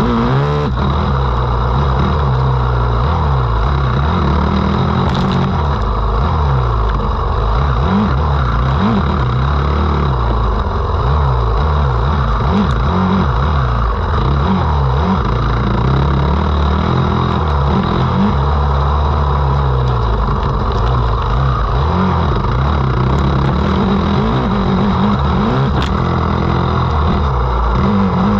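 A motocross dirt bike engine revving hard, its pitch repeatedly rising and falling as the rider works the throttle and shifts gears around the track.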